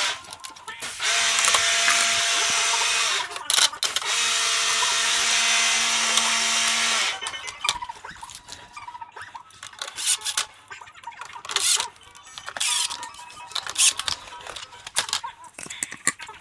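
Electric screwdriver or drill running in two steady runs, about two and three seconds long, turning screws, followed by scattered clicks and knocks.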